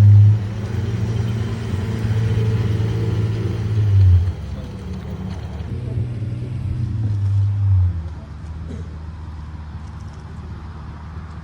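Pagani Zonda HP Barchetta's V12 running at low revs with a deep, steady note. It swells twice and eases off about four and eight seconds in, then fades.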